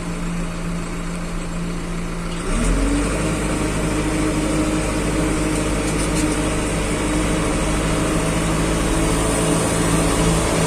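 Diesel engine of a heavy construction machine running at idle, then revving up about two and a half seconds in and holding steady at the higher speed.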